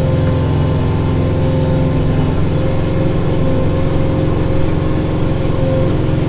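Kubota tractor's diesel engine running steadily at working revs, a deep, even engine note.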